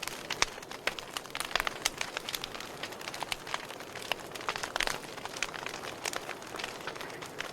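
Campfire burning, its wood crackling with frequent irregular sharp pops over a steady low hiss.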